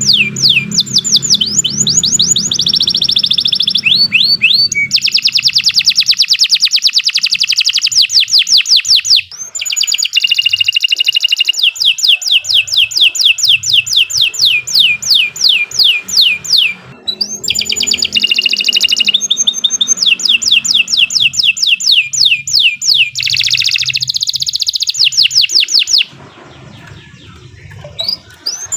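Domestic canary singing a long, loud song made of fast trills of rapidly repeated downward-sweeping whistled notes. The song switches between trill types, with brief breaks about 9 and 17 seconds in and a short pause near the end.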